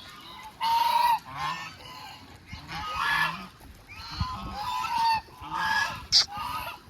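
Geese honking repeatedly, several calls overlapping, with a brief sharp high-pitched sound about six seconds in.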